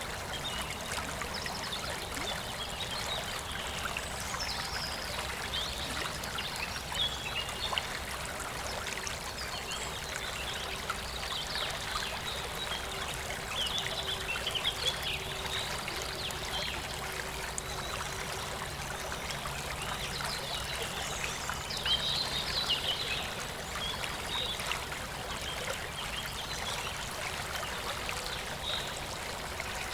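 River water flowing and trickling steadily, with a few louder splashes, the loudest a little past the middle.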